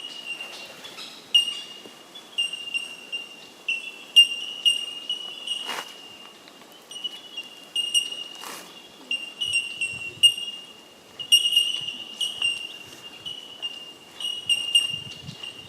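A colony of bell miners (bellbirds) calling: many short, bell-like 'tink' notes on nearly one high pitch, overlapping and repeating irregularly from several birds at once.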